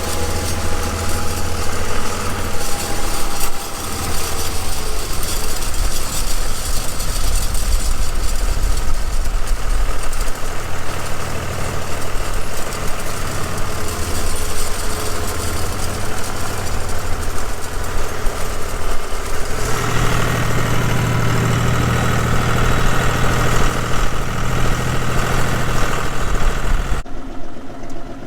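John Deere 5210 tractor's diesel engine running steadily, heard from the operator's seat of the open-cab tractor as it pulls a drag harrow. About twenty seconds in the engine hum gets louder, with a higher whine over it. Near the end the sound drops off abruptly.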